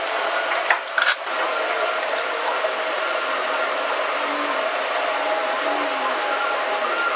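A small electric motor and fan whirring steadily with a constant hum, with a few sharp clicks about a second in.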